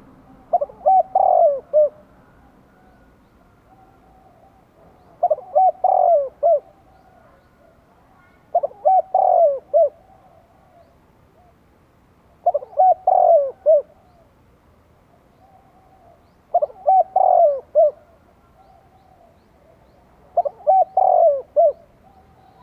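Spotted dove cooing: a short phrase of several quick coo notes, repeated six times, roughly every four seconds.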